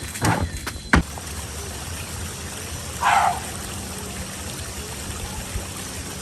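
Water running steadily, as from a tap or being poured, then cut off abruptly. A sharp knock comes about a second in.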